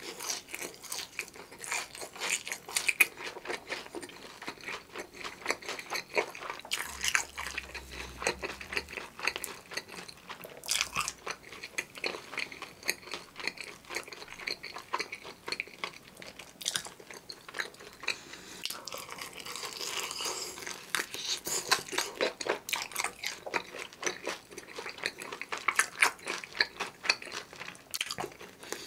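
Close-miked chewing and biting of a bhc Bburinkle fried chicken drumstick coated in cheese seasoning powder. Crunchy bites of the fried coating and wet mouth sounds, with a steady run of short crackles.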